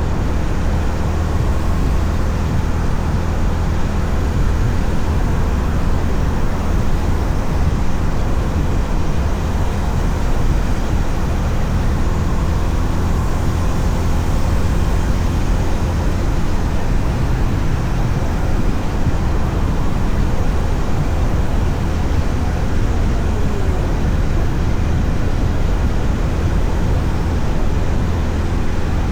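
Honda CB350RS's single-cylinder engine running steadily on the move, under constant wind and road noise.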